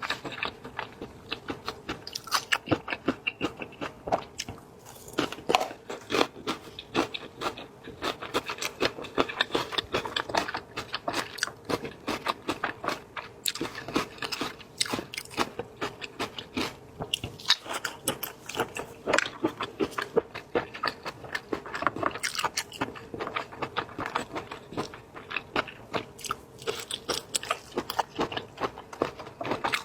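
Seafood eaten close to the microphone: crunchy biting and chewing, a dense run of sharp clicks several times a second.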